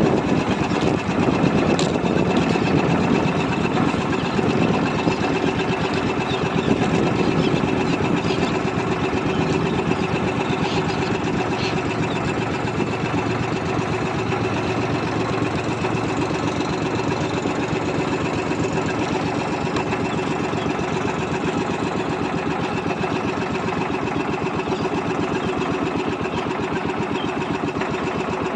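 Small fishing boat's engine running steadily with a fast, even pulse.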